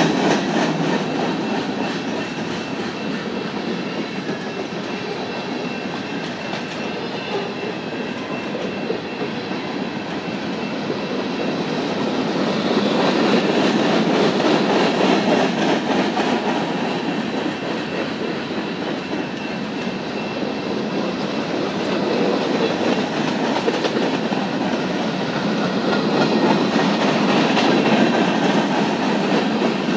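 Freight train of covered hoppers and boxcars rolling past close by, with a continuous rumble and clatter of steel wheels on the rails. It swells louder twice, about halfway through and again near the end.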